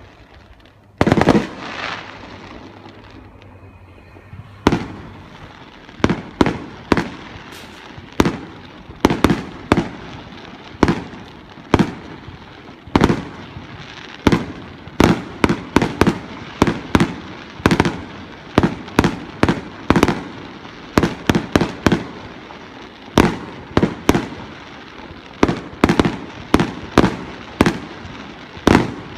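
Aerial fireworks shells bursting: a loud bang about a second in, then sharp bangs coming closer and closer together into a rapid, near-continuous barrage, each trailing off briefly.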